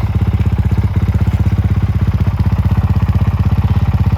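Honda CRF450 dual-sport motorcycle's single-cylinder four-stroke engine idling with a steady, rapid, even pulse.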